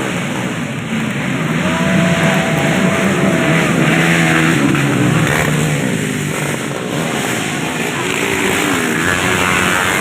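Racing motorcycle engines revving hard, several at once, their pitch climbing and falling as they are opened up and let off.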